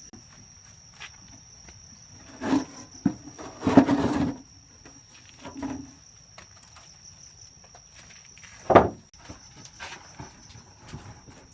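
Insects keep up a steady high-pitched drone, with a few short, loud sounds breaking in, the loudest about four seconds and nine seconds in.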